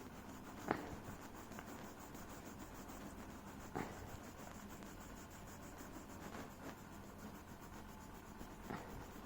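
Colouring stick scratching steadily over a paper worksheet as an area is filled in with colour, faint, with three light taps spread through it.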